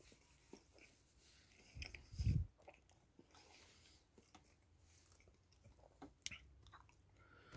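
Faint chewing and mouth sounds of a man eating a roast beef sandwich: small wet clicks, with one short, louder low sound about two seconds in.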